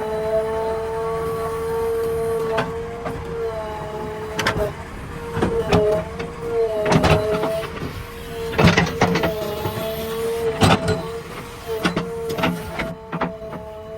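JCB backhoe loader working: a steady high machine whine that sags in pitch now and then as it takes load, with repeated sharp clanks and knocks of metal.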